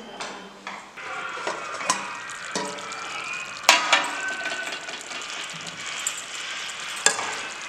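Marinated chicken sizzling in a kadai, stirred with a metal spatula that scrapes the pan and knocks against it a few times, the sharpest knock near the middle.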